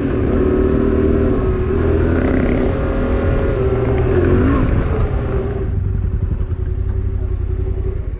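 Motorcycle engine running at a steady pace on the move, under a rushing noise that thins out about five seconds in while the engine carries on.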